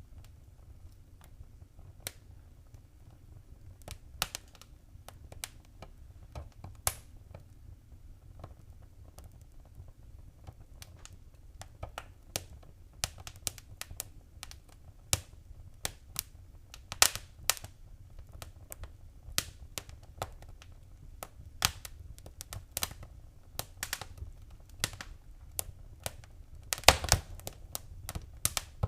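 Wood fire in a fireplace crackling: irregular sharp pops and snaps over a low steady rumble, with a quick run of louder pops near the end.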